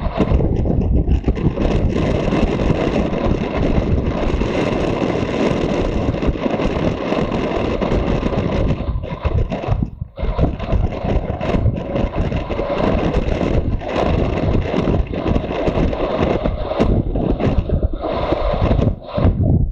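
Motorcycle riding on the road: engine running under way, mixed with loud wind rushing over the microphone, with brief dips in level about halfway and near the end.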